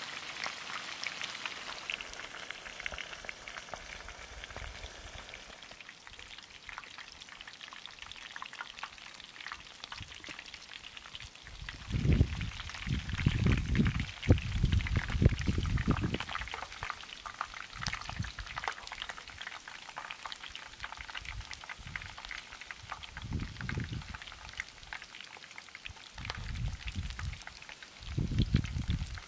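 Food frying with a steady crackling sizzle. Spells of low rumbling come through it in the middle and again near the end.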